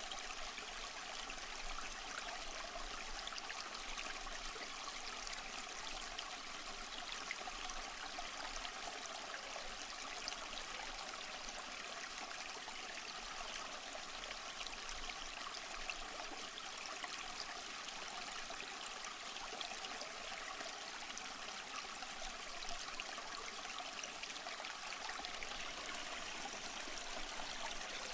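Small stream flowing and trickling over rocks, a steady even rush of water with no pauses.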